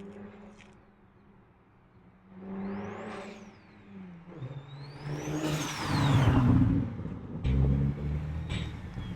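Built single-turbo BMW N54 inline-six with a Precision T51R turbocharger accelerating past: a high turbo whistle rises with the revs, drops at a gear change about three seconds in, then climbs higher still before falling away.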